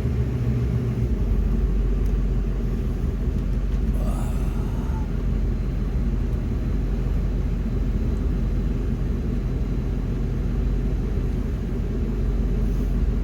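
Plow truck's engine running steadily, a continuous low rumble whose deep hum shifts lower about a second in.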